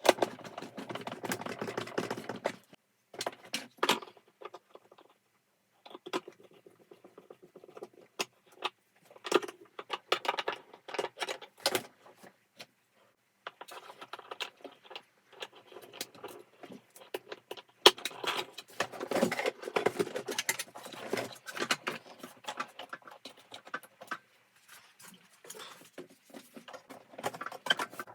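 Vacuum cleaner parts and tools being handled during disassembly: irregular clicks, knocks and rattles of small hard parts, with short pauses about 3 s, 5 s and 13 s in.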